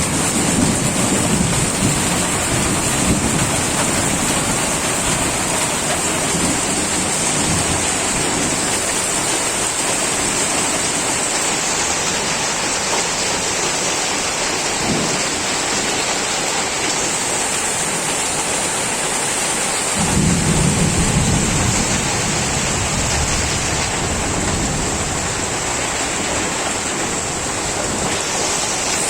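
Heavy rain pouring steadily during a thunderstorm, with low rolling thunder right at the start and again about two-thirds of the way through.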